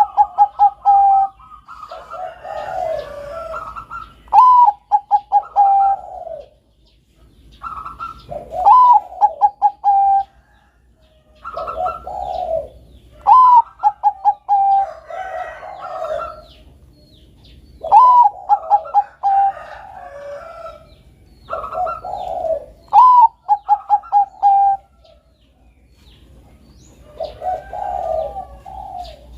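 Perkutut bangkok (zebra dove, Geopelia striata) singing its repeated cooing song: about every four and a half seconds a phrase opens on a high note and runs on into a quick string of short notes, with softer, rougher cooing between phrases.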